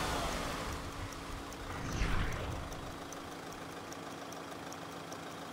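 Low, steady rumble of a Mahindra Thar's engine idling, with a rushing swell about two seconds in and a faint high ticking about twice a second.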